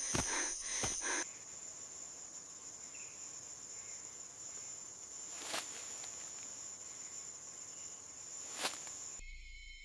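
A steady, high-pitched insect drone, like crickets. It is broken by two sharp snaps, one about halfway through and one near the end. During the first second there is a quick run of rhythmic breathy puffs, and just before the end the sound cuts to music.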